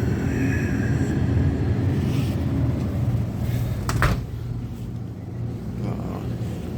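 Steady low rumble, with a sharp knock about four seconds in.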